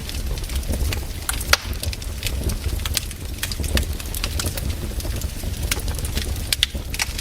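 Wood fire crackling in a fireplace: frequent sharp, irregular pops and snaps over a low, steady rumble.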